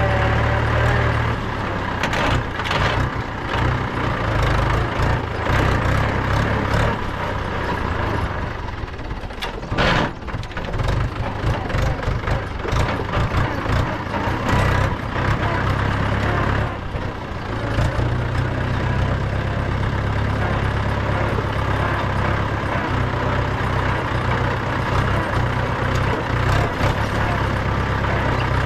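Mahindra 475 DI tractor's four-cylinder diesel engine running with a steady low drone, with scattered knocks and rattles over it, the sharpest about ten seconds in.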